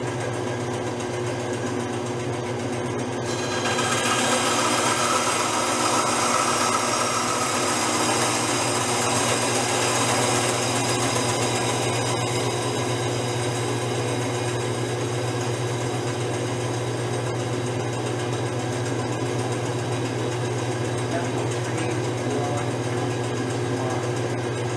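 Electric woodworking power tool running steadily, its motor hum under a dense hiss, growing louder and fuller from about four to ten seconds in as it works through the wood.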